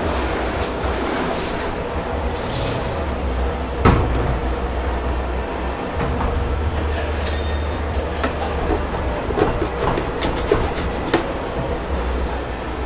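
Dishes and pots clattering and knocking in a commercial kitchen dish pit over a steady low machine hum, with a brief hiss near the start. One sharp knock comes about four seconds in, and a quick run of clinks and knocks comes later.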